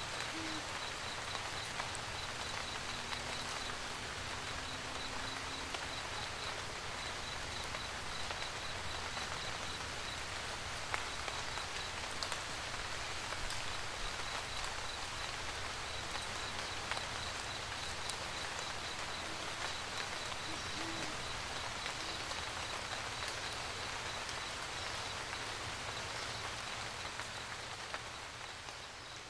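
Steady rain pattering, with scattered sharp drop ticks. An owl hoots faintly right at the start and again about two-thirds of the way through, and a high, evenly pulsing chirp sits over the rain. The whole mix fades down near the end.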